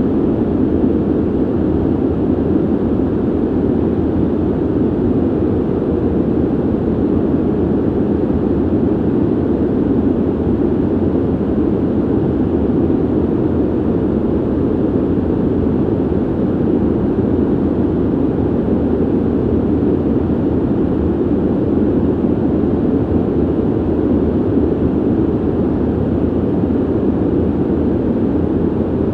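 Steady ventilation noise: an even, low rushing hum of air with most of its weight in the low end and little hiss, unchanging throughout.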